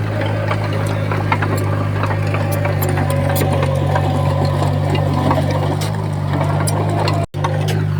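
Komatsu D20P crawler bulldozer's diesel engine running steadily, with scattered short clicks and clanks over it. The sound drops out for an instant near the end.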